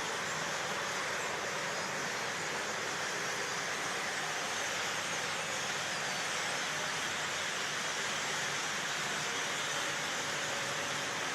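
A giant flock of birds making a steady rushing hiss that sounds like wind or rain.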